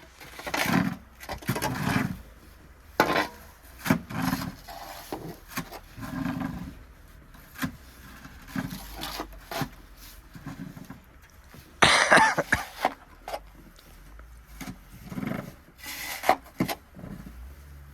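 Snow shovel scraping and scooping through snow in a series of irregular strokes, some with a dull thud of snow being dumped; the loudest scrape comes about 12 seconds in.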